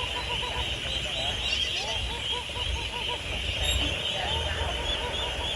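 A large flock of domestic ducks quacking continuously, many short overlapping calls at once, over a low rumble.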